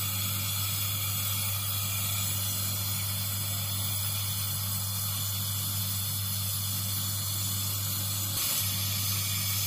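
Gas brazing torch hissing steadily while a copper process tube is brazed onto a refrigerator compressor with copper brazing rod, over a steady low hum; the hiss grows a little louder near the end.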